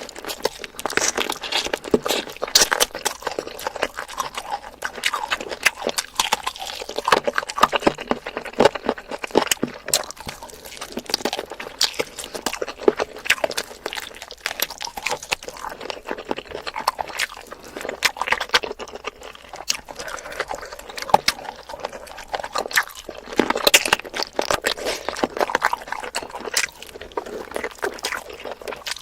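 Close-miked eating of spicy chicken feet: wet chewing, smacking and sucking on the skin and cartilage, a dense run of small clicks and crackles.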